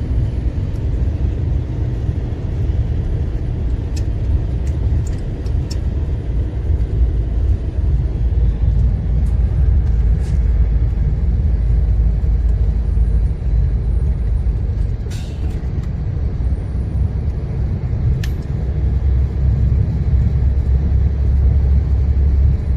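A heavy truck's diesel engine labouring uphill, heard from the cab as a steady low rumble with road noise. The engine is bogging down on the climb. A few short clicks sound in the second half.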